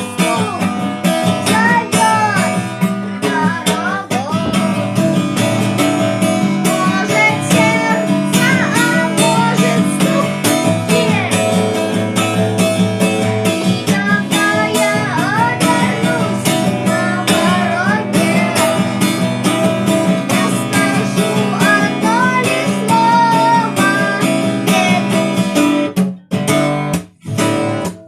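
Strummed acoustic guitar playing steadily with a melody line over it. The music breaks off briefly twice near the end.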